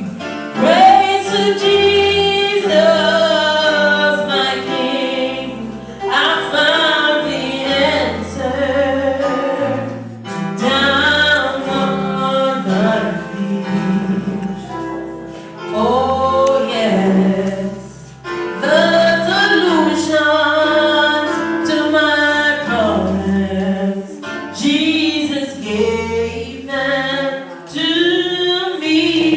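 A woman singing a gospel song, her voice rising and falling in long held phrases over low held bass notes.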